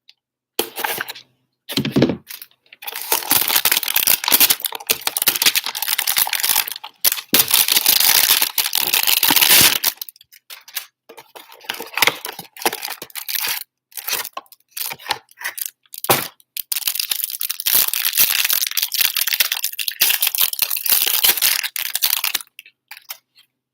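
Wrapping of a 2020 Playbook football card box and its packs being torn open and crinkled by hand: long crackling stretches broken by short pauses.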